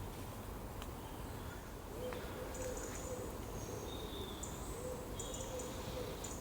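Woodland ambience: a low bird coo repeated in phrases from about two seconds in, with thin high calls of small birds above it. A steady low rumble of wind runs under it all.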